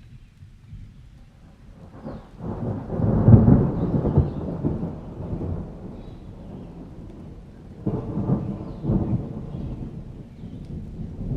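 Thunder rumbling during a rainstorm: a loud, deep peal builds about two seconds in and rolls away over a few seconds, and a second rumble follows near the end.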